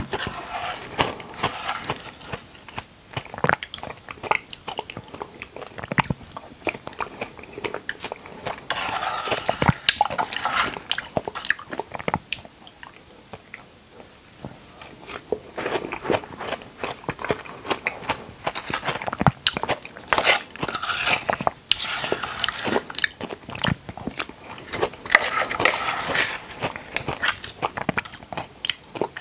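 Close-miked wet chewing of red dragon fruit chunks: many small juicy mouth clicks and squishes, in louder spells every few seconds as fresh spoonfuls go in.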